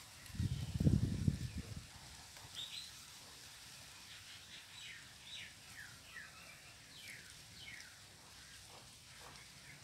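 Small birds chirping in quick, short falling notes over a quiet outdoor background. About half a second in, a brief low rumble on the microphone is the loudest sound.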